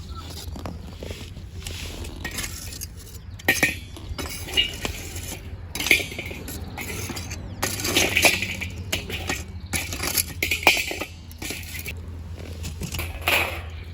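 Irregular clinks and knocks of dishes or cookware being handled, a sharp strike every second or two.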